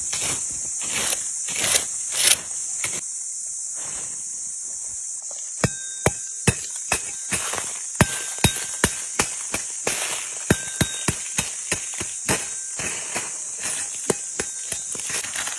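A steady, high-pitched insect drone throughout, with scraping and rustling in the first few seconds. From about five seconds in, a run of sharp, irregular knocks comes at roughly two a second, a few of them ringing briefly like struck metal.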